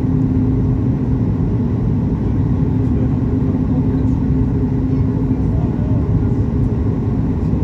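Steady cabin noise inside a Boeing 737 MAX 8-200: a dense, even rumble of engines and airflow with a steady hum over it.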